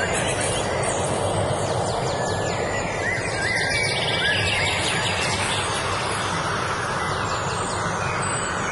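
Several small birds chirping and singing in short, quick phrases, some with rapid falling notes, over a steady rushing background noise that is the loudest thing heard.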